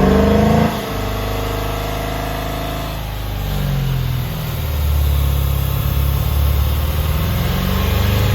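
2005 Ford Mustang GT's 4.6-litre V8 running with no air intake fitted. It finishes a short rev and drops back to idle just under a second in, then settles into a steady idle that grows louder from about four and a half seconds in.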